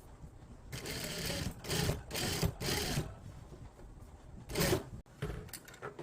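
Pruning work on a plant: a run of short rustling, scraping noises from handling and cutting stems and leaves, four in quick succession and then one more near the end.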